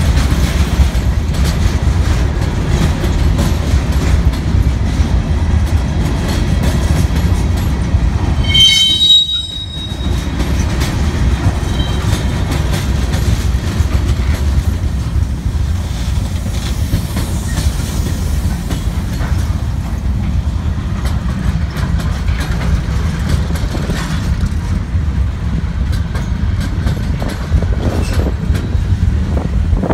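Freight cars rolling past close by: a steady low rumble of steel wheels on rail, with repeated clicks as the wheels cross the rail joints. About nine seconds in there is a brief high-pitched squeal.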